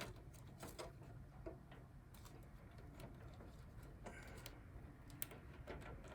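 Faint scattered clicks and light plastic-on-metal knocks of a power supply cable connector being worked and fitted by hand inside a Power Mac G4 case, over a low hum.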